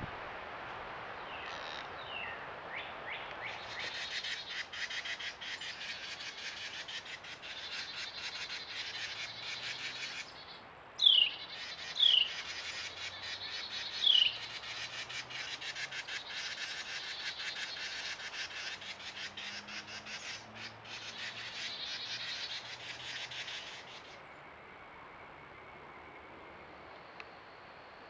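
Outdoor birdsong: dense, rapid chirping and chatter, with three loud calls about halfway through, each sliding down in pitch.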